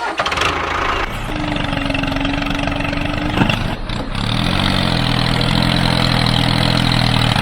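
An engine running steadily, its pitch rising about four seconds in and then holding even.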